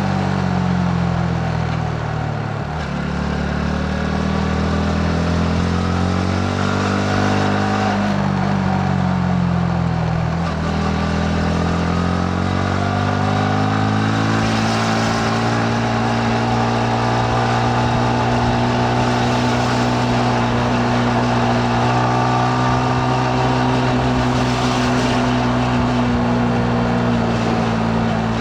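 Yamaha MT-15's single-cylinder four-stroke engine running on the move. Its revs drop and rise several times over the first ten seconds or so with throttle and gear changes, then climb slowly and hold steady.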